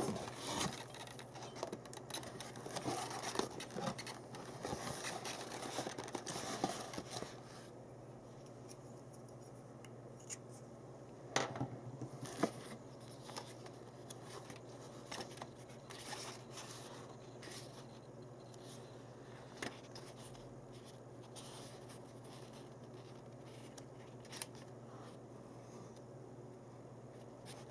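Handling noises: a dense run of scratching and scraping for the first seven seconds or so, then scattered clicks and knocks.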